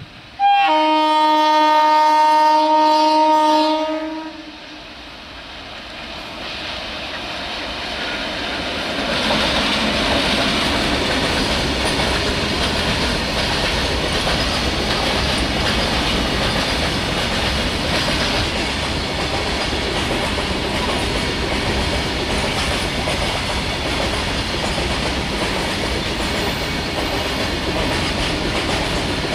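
WAG-7 electric locomotive's horn sounding one long, steady-pitched blast of about three and a half seconds. The wheel and wagon noise of the train of high-capacity parcel vans then builds over a few seconds and runs steadily as the vans roll past.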